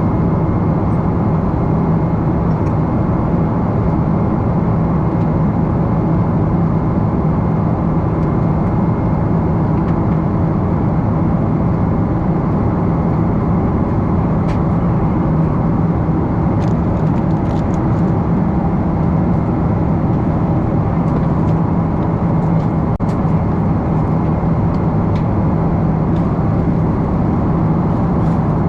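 Steady, loud cabin noise inside a Japan Airlines Boeing 777-300 in flight: engine and airflow noise with a low hum, heard from a window seat.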